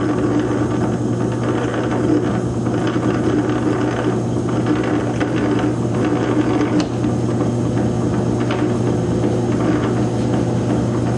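South Bend lathe running under power: a steady motor hum with the clatter of its gear train.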